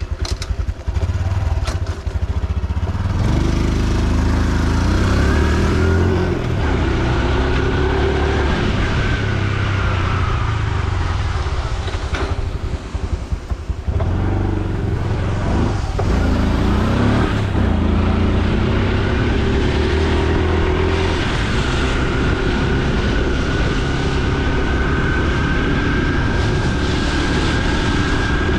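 Honda Super Cub C125's single-cylinder engine running on the move, its pitch rising several times as it pulls away and accelerates, with a brief drop in the middle, over steady wind and road noise.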